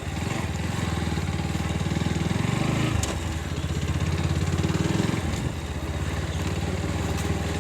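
Motorcycle engine running under way, its note climbing, dropping back about three seconds in, then climbing again and easing off near five and a half seconds.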